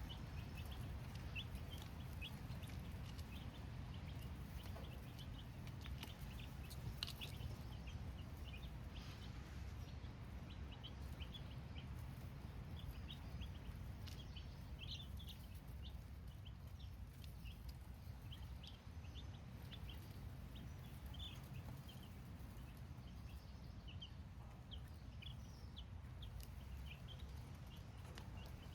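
Brooder of baby chicks cheeping: many short, high peeps scattered through the whole stretch, over a low steady hum.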